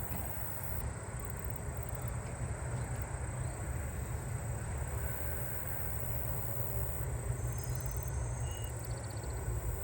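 Agile meadow katydid singing: a very high, thin buzz in long stretches broken by short pauses, with ticks at the start of the buzzes. A low steady rumble lies underneath.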